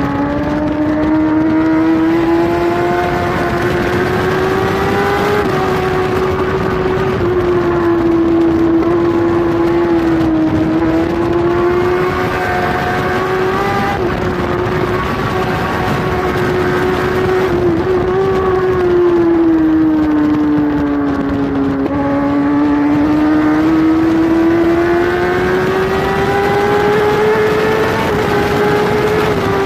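Kawasaki superbike's inline-four engine running hard at high revs, its pitch climbing and sagging with throttle and gear changes, heard from a camera mounted on the bike with wind rushing past.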